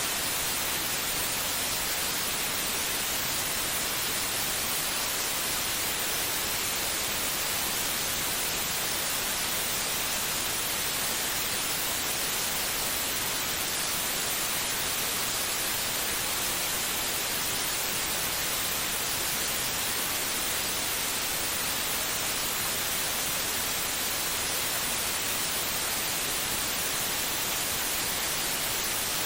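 Steady white noise: an even hiss with no rhythm or change, strongest in the upper range.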